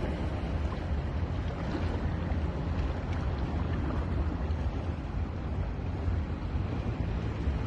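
Sea surf washing steadily onto a beach, a continuous rushing noise with a heavy low rumble underneath.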